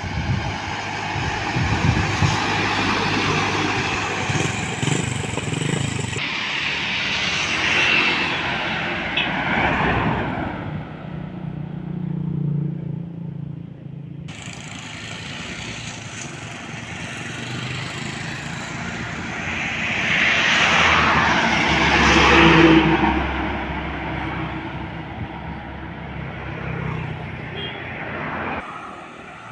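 Heavy trucks driving past on a road, engine and tyre noise swelling as each one comes close and fading as it moves away, loudest about 8 seconds in and again about 22 seconds in. The sound changes abruptly a few times, as at cuts between shots.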